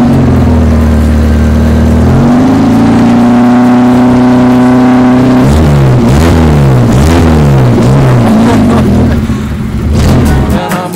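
Tuned car engine being revved: it climbs to higher revs about two seconds in and holds there, then is blipped up and down several times before dropping back near the end.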